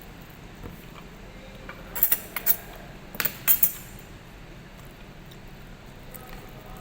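Cutlery clinking against a plate while eating: a few quick, sharp clinks about two seconds in, then another short cluster a second later.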